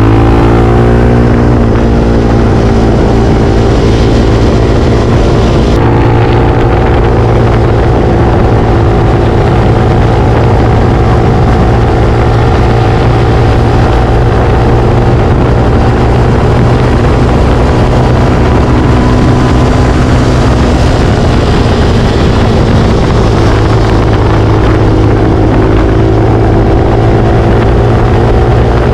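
Motorcycle engine running steadily at a fairly constant speed. Its pitch rises in the first second, then holds, dipping slightly about three-quarters of the way through.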